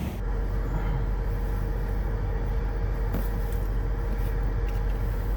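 Car running, heard from inside the cabin: a steady low rumble with a faint steady hum above it.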